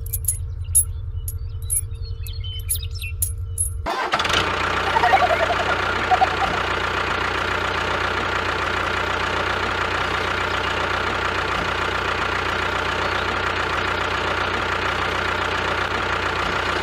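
Engine running: a low, evenly pulsing chug for about four seconds with a few clicks over it, then an abrupt change to a steadier, busier engine sound.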